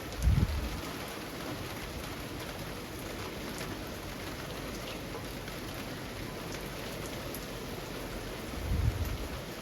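Steady rain falling on trees and leaves, an even hiss with a few separate drops standing out. Two short low rumbles, each about half a second, come near the start and near the end.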